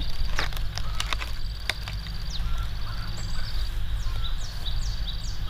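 Birds calling outdoors with short, falling chirps repeated in quick runs, over a steady high insect-like drone and a constant low rumble. A few sharp clicks come in the first two seconds.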